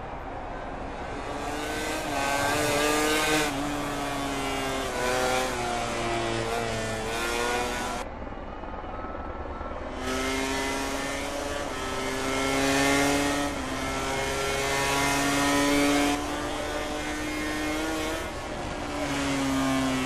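MotoGP racing motorcycles' four-stroke engines revving hard up and down through the gears, pitch climbing under acceleration and falling on the downshifts. The sound thins out briefly about halfway through, then builds again.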